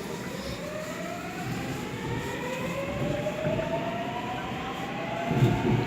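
Seoul Line 7 electric subway train pulling away and accelerating: the whine of the traction motor drive rises steadily in pitch, in several tones at once, over the rumble of the car. A few low thumps come near the end.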